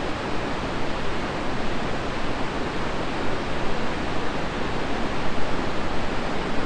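Steady, even rush of the Tallulah River's water in the gorge, with no breaks or distinct splashes.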